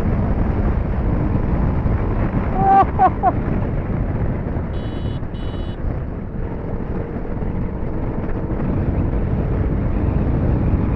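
TVS Apache 310's single-cylinder engine running under hard riding, mostly covered by a steady rush of wind on the action-camera microphone. Two short high beeps come about five seconds in.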